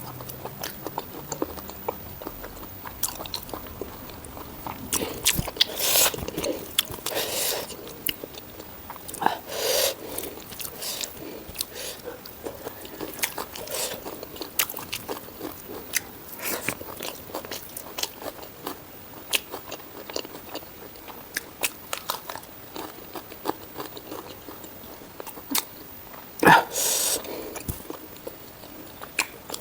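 Close-miked eating of spicy pork ribs, rice and king chilli: a steady run of small wet chewing clicks broken by louder crunching bites a few times, the loudest near the end.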